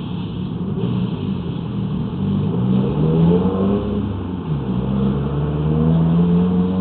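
A motor vehicle's engine running, its pitch rising and falling as it speeds up and slows down.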